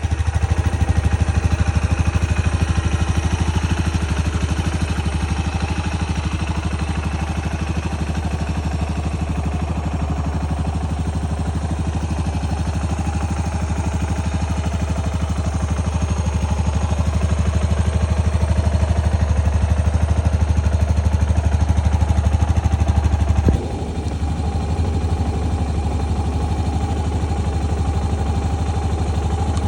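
Yamaha SR400 RH03J's fuel-injected, air-cooled single-cylinder engine idling with an even, steady thump. About three quarters of the way through, the level drops suddenly and the note changes, then it runs on steadily.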